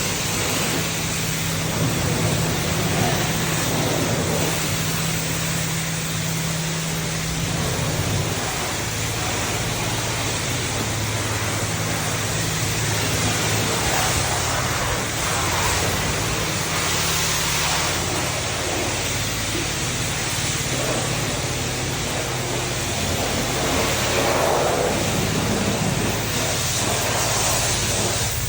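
Self-serve car wash high-pressure wand spraying water onto a car: a steady, even hiss with a low, steady pump hum underneath.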